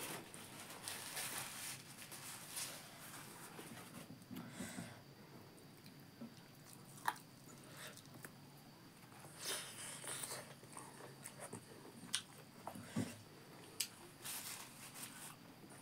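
Close-up mouth sounds of eating rice and buffalo meat by hand: chewing and biting, with a few sharp clicks.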